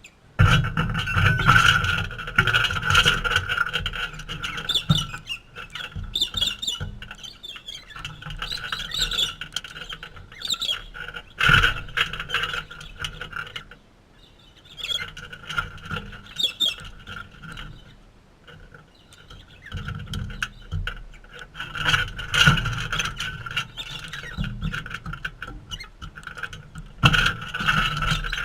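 Galahs calling: repeated high, squealing chatter in bursts, with brief lulls between.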